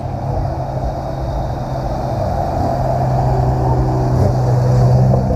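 A car's engine and exhaust running at a steady, unchanging pitch, getting a little louder toward the end.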